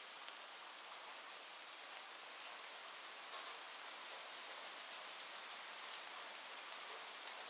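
Steady rain falling, an even hiss with occasional sharper drop ticks scattered through it.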